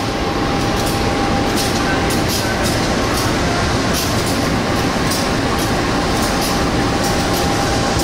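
Train noise at a station platform: a steady rumble with a thin, steady high tone over it.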